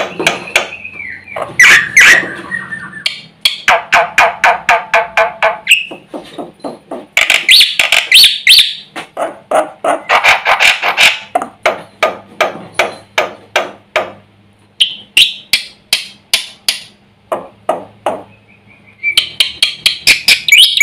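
Black-winged myna (jalak putih) singing hard: long runs of rapid, sharp repeated notes, several a second, broken by harsher chattering phrases and short whistles, a song packed with fill-in phrases ('full isian').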